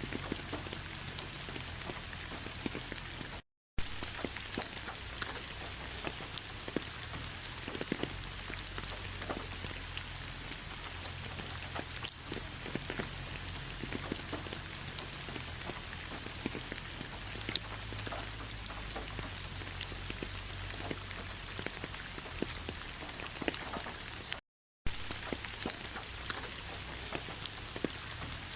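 Rain falling on fallen autumn leaves: a steady patter of countless small drop ticks. It cuts out to silence briefly twice, a few seconds in and again near the end.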